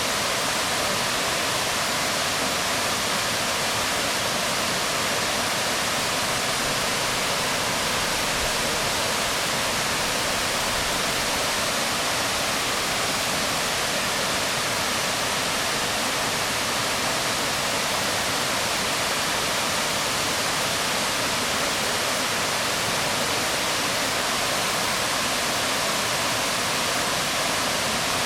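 Waterfall falling onto rocks: a steady, even rush of water with no pauses or changes.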